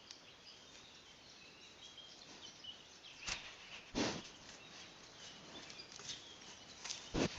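Quiet woodland background with faint, scattered bird chirps. A few short, sudden noisy bursts break in, about three and four seconds in and again just before the end.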